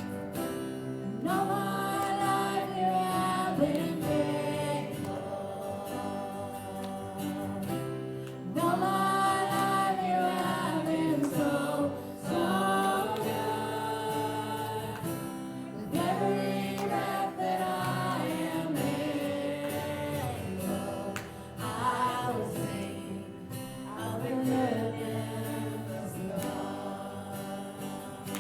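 A gospel song: voices singing over instrumental accompaniment that includes guitar.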